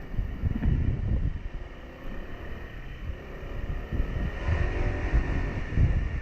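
Honda 125cc motorcycle riding, with heavy wind buffeting on the helmet-mounted camera microphone; the engine note rises about four seconds in as the bike accelerates.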